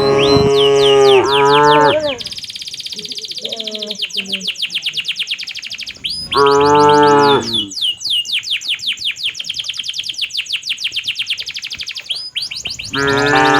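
Cattle mooing: a long, loud moo at the start, another about six seconds in, and a third beginning near the end. Between the moos, a fast run of high chirps, about ten a second.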